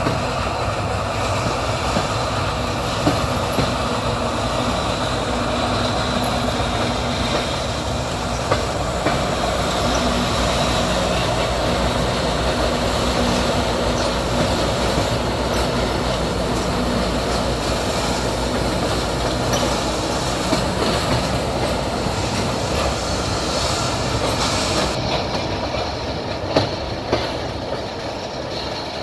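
Train wheels rolling along the track at speed, heard from a moving carriage: a steady rumble with a few sharp clacks over rail joints.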